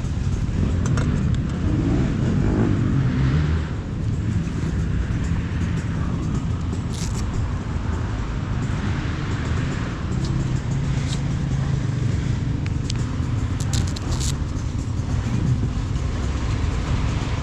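Motocross bike engine running under load on a dirt track, its pitch rising and falling with the throttle, with a few short sharp clicks over it.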